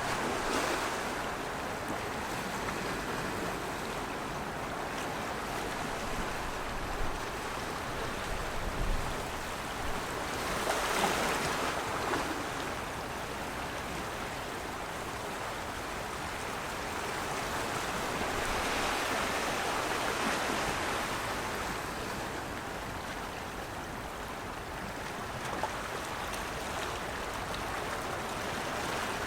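Water rushing steadily, swelling louder about eleven seconds in and again around twenty seconds in.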